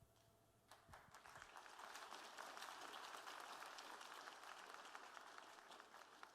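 Faint audience applause, many hands clapping, starting about a second in and dying away near the end.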